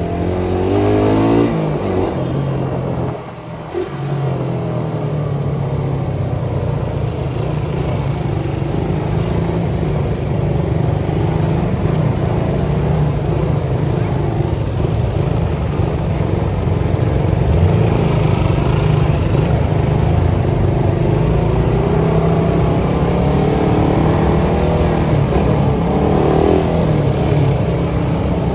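Suzuki Satria FU 150's single-cylinder four-stroke engine running through its CBU Thailand exhaust under way. The revs climb quickly in the first second or so and drop briefly about three seconds in, as at a gear change. The engine then pulls steadily, with slow rises and falls in pitch.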